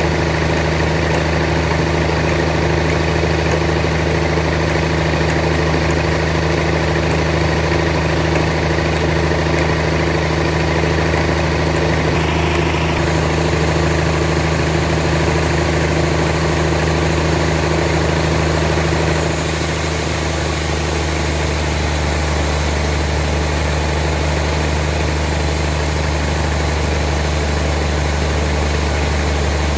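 Sawmill machinery running with a steady, loud low drone, like an engine or motor held at constant speed. Its tone shifts slightly about two-thirds of the way through.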